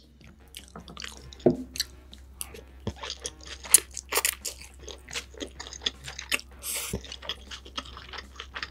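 A person chewing food close to the microphone: many small, irregular mouth clicks and smacks.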